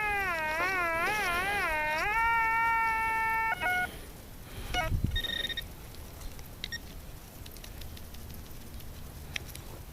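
Metal detector's audio tone responding to a target: a pitched tone that warbles up and down for about two seconds, then holds steady for about a second and a half and cuts off. A few short high beeps, a dull thump and faint clicks follow.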